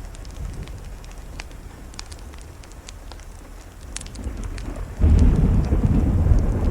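Thunder rolling over steady rain. The low rumble builds from the start and swells sharply into a loud rumble about five seconds in, with scattered small sharp ticks throughout.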